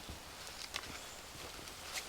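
A few faint crunching footsteps, well under a second apart, over a light steady hiss.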